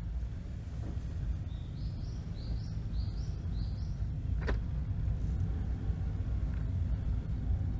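Steady low rumble, with a bird calling a run of about five short rising chirps in the first half and one sharp click about halfway through.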